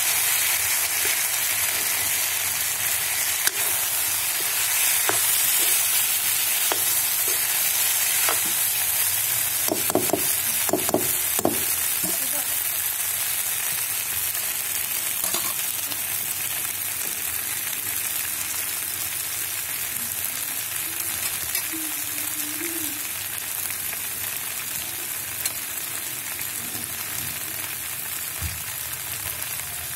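Potatoes and cauliflower sizzling in oil in a metal kadhai, stirred with a ladle. A steady hiss that fades slowly, with a few sharp clicks about ten seconds in.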